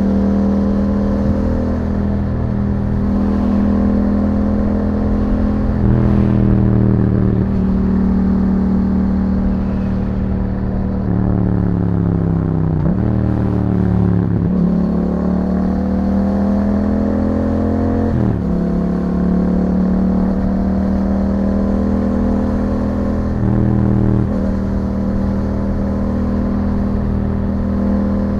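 2021 Yamaha MT-07's parallel-twin engine through an Akrapovic exhaust under way: the engine note climbs as it pulls, then drops sharply at upshifts about 13 and 18 seconds in, with smaller changes in between as the throttle is opened and eased.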